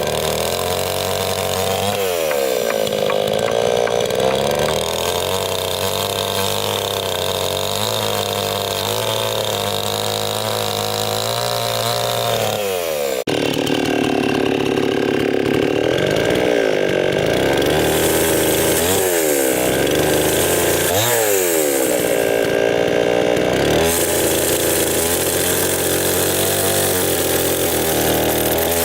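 Chainsaw engine running continuously, its pitch dipping and climbing back several times as it is worked. The sound changes abruptly a little after halfway.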